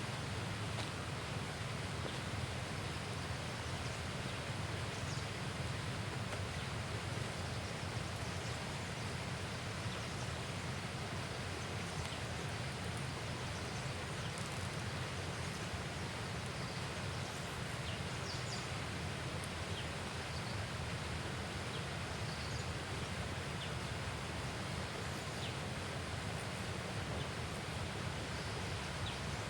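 Steady outdoor riverside ambience: a continuous low rumble under an even hiss, with faint short high chirps scattered through it.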